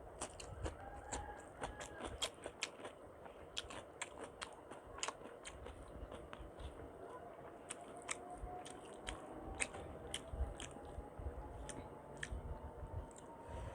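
Close-miked eating sounds: chewing and biting on a mouthful of khichuri with chicken and fish, with many sharp, irregular wet clicks and smacks. A faint tone rises slowly in the background through the second half.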